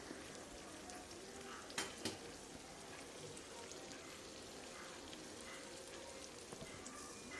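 Faint sizzle of okra frying in a kadai, with a couple of light clinks about two seconds in.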